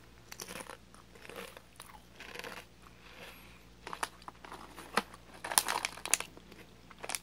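Crinkle-cut potato chips being bitten and chewed: irregular sharp crunches, thickest from about four to six seconds in.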